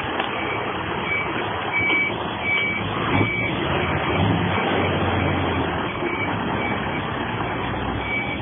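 A truck's reversing alarm beeping steadily, about one and a half high beeps a second, over the low running of a truck engine.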